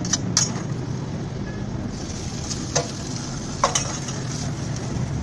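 An egg-filled bun burger sizzling steadily in oil on a flat griddle, with a few sharp taps: two at the start and two more near the end.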